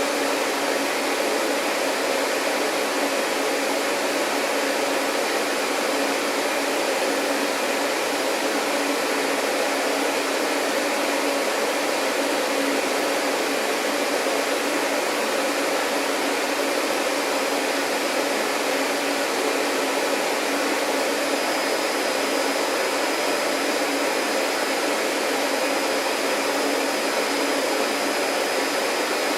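Vacuum cleaner running steadily, a continuous even rush of air with a faint motor hum. A thin high whine joins in about two-thirds of the way through.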